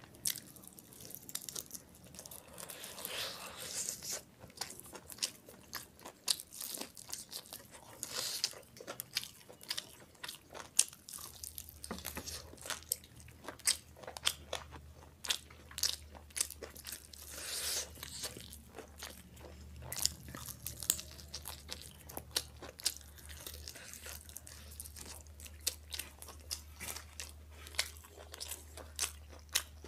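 A person biting and chewing a fried chicken lollipop, with many sharp crisp crunches of the fried coating and wetter chewing sounds between them.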